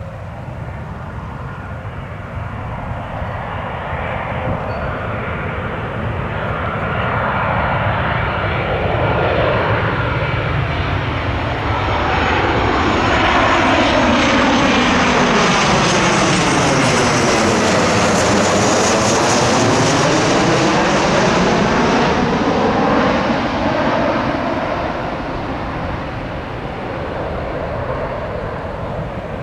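Boeing 737-700 jet passing close on its landing approach, its CFM56 engines growing louder for about twelve seconds, with a falling-then-rising whoosh as it goes by midway, then fading away.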